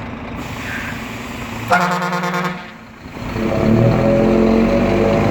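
A vehicle's horn gives one short blast under a second long, about two seconds in, over a running engine. About three seconds in, a deep, steady droning tone starts and holds.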